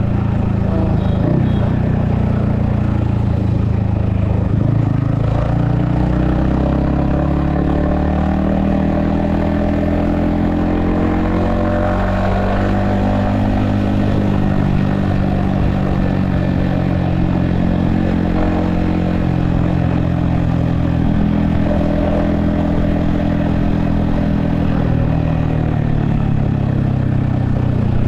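Yamaha XSR155's 155 cc single-cylinder engine running under way, its pitch climbing slowly and easing back as the throttle changes, heard from the rider's helmet with steady wind and road noise.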